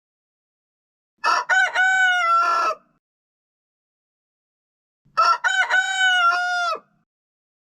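A rooster crowing twice, each crow about a second and a half long, with a clean silence between the two.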